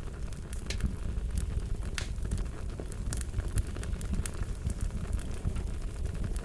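Wood fire crackling: a steady low rumble of flames with irregular sharp pops and snaps.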